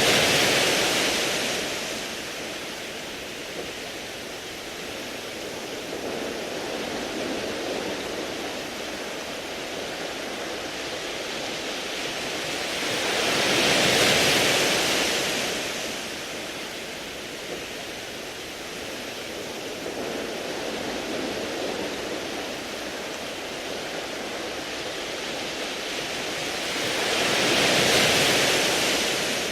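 Sea waves washing over a beach of smooth round pebbles: a steady wash of surf that swells with a breaking wave about every 14 seconds, three times, then ebbs between them.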